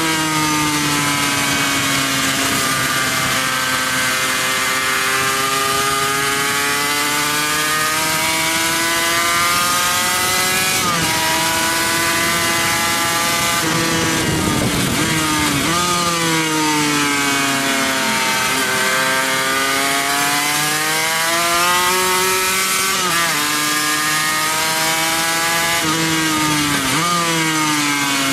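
Racing motorcycle engine heard onboard at full speed, its revs climbing and falling through the gears with sudden jumps in pitch at the gear changes, over a steady rush of wind noise.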